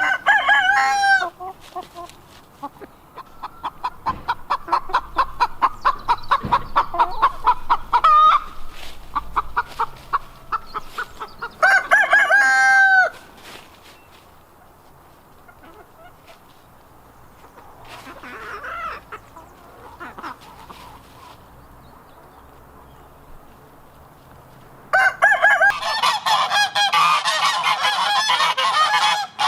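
A rooster crowing twice, at the start and about twelve seconds in, with a chicken clucking in a fast run of calls between. Near the end, a flock of geese starts honking, many calls overlapping.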